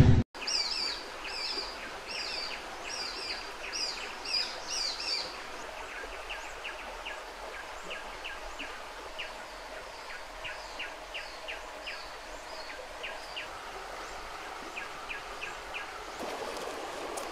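Wild birds chirping over steady outdoor hiss: a repeated falling chirp about twice a second for the first five seconds, then fainter short chirps. A whoosh sound effect cuts off right at the start.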